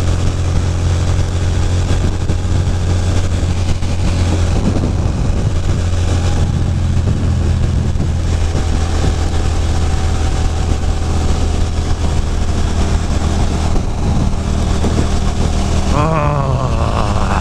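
Ducati Monster 620's air-cooled V-twin running steadily at cruising speed, with wind noise over the microphone. The engine note changes slightly about six seconds in and again near fourteen seconds. A voice is heard briefly near the end.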